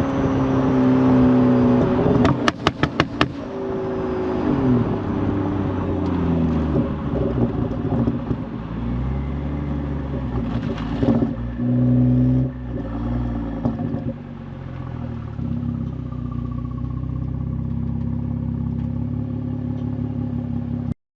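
Exhaust of a BMW 440i's Gen 1 B58 turbocharged inline-six, revving up and falling back. About two and a half seconds in there is a quick string of sharp pops from the tuned burble setting. From about two-thirds of the way through it settles to a steady idle, which cuts off suddenly near the end.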